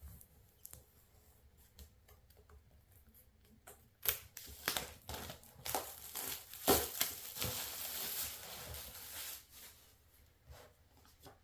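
Wrapping of a small package of stickers being torn open and crinkled by hand: a run of crackling and sharp ripping clicks starting about four seconds in and lasting several seconds.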